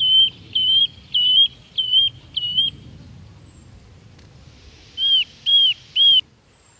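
A wild bird calling with short, clear whistled notes: a run of five quick notes, then after a pause three more arched notes.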